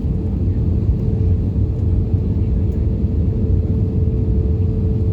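Steady cabin noise aboard an Airbus A320-232: a continuous low rumble of the engines and airflow, with a constant thin hum running through it.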